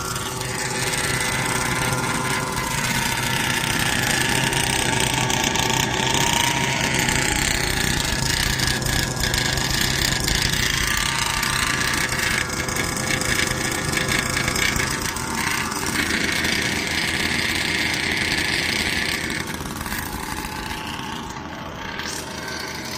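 36cc two-stroke petrol engine of a large-scale RC buggy running steadily, mostly at idle, on its first start during break-in. It eases off slightly near the end.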